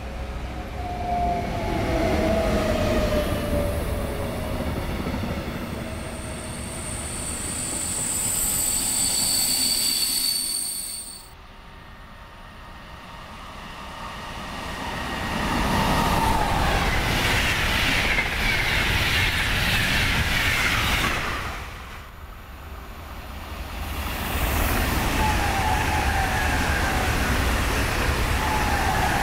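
Trains running past on the line, with loud rolling wheel and running noise. A high-pitched wheel squeal comes in about a third of the way through. The sound drops away abruptly twice.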